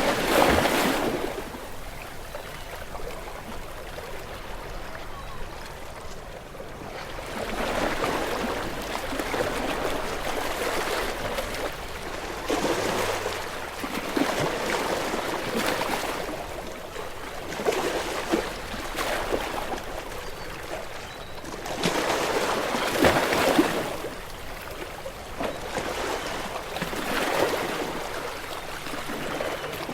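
Small ocean waves breaking gently on a shore, each swelling to a splash and washing back, roughly every few seconds.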